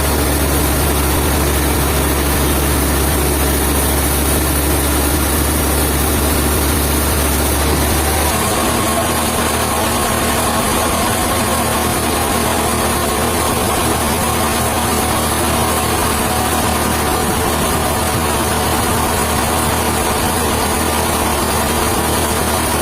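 Sawmill machinery running: a steady engine drone whose strong low hum drops away about eight seconds in, leaving a higher, busier whir.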